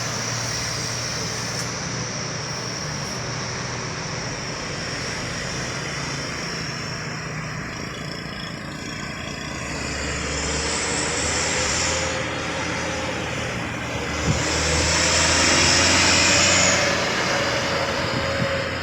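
Heavy vehicles passing close by: continuous engine noise with a steady low hum and a hiss. It swells louder twice, near the middle and again later, with a single sharp knock just before the second swell.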